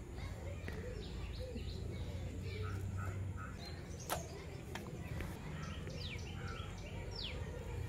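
Birds calling in the background: short high chirps and several quick falling whistles, most of them in the second half, over a steady low hum. A single sharp click sounds about four seconds in.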